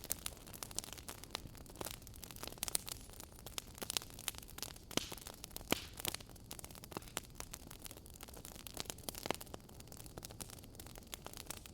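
Fireplace crackling: irregular sharp pops and snaps over a soft steady hiss.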